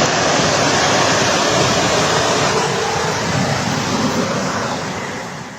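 Steady rushing of fast-flowing floodwater, fading out near the end.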